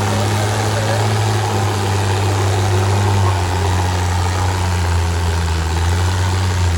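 Antique tractor engine running hard and steady while pulling the weight sled, its note dropping slightly a little under halfway through.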